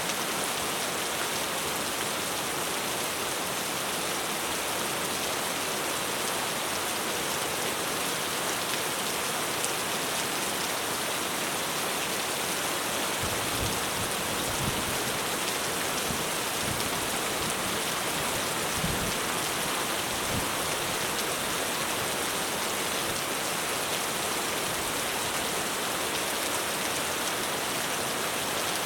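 Heavy rain falling steadily on a roof in a dense, even hiss. Around the middle comes a low rumble of distant thunder.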